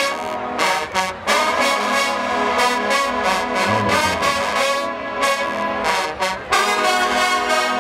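Marching band brass section playing a loud fanfare: short punched chords, then long held chords, with brief breaks about a second in and again near the end.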